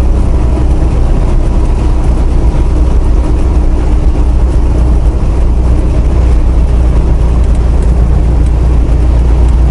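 Steady low rumble of a semi truck's diesel engine and road noise, heard inside the cab while driving.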